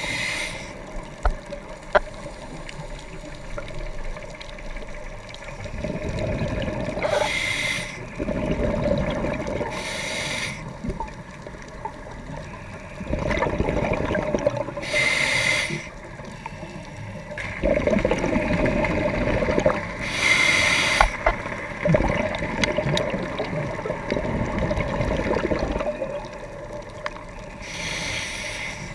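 A scuba diver breathing through a regulator underwater: a short hiss of air drawn through the demand valve, then a longer burble of exhaled bubbles, repeating about every five seconds.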